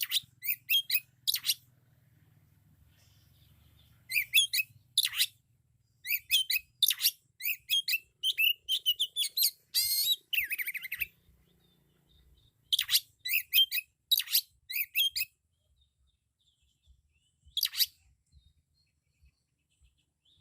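Oriental magpie-robin singing loudly: rapid, varied warbling and whistled phrases in bursts of a few seconds with short pauses between, a song of the kind packed with mimicked calls of other birds.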